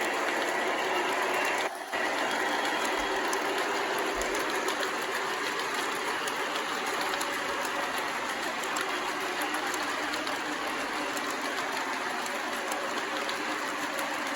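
MTH Propane Turbine model locomotive, with four motors, running steadily at speed on its track: a continuous whirring clatter of motors and wheels. The audio drops out briefly about two seconds in.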